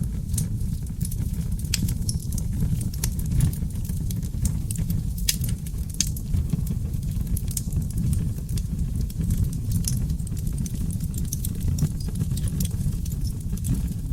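Wood fire burning in a fireplace, crackling and popping irregularly over a steady low rumble, with a few sharper pops about five and six seconds in.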